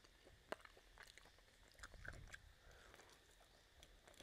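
Faint close-miked chewing of pork rib meat, with scattered small mouth clicks and one sharper click about half a second in.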